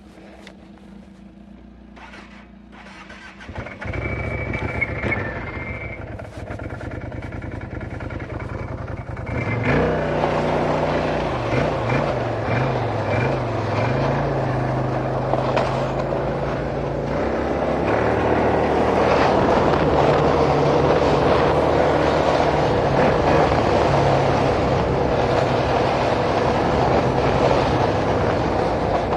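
Vehicle engine catching about four seconds in and running, then being revved up and down from about ten seconds in, and held at higher revs toward the end.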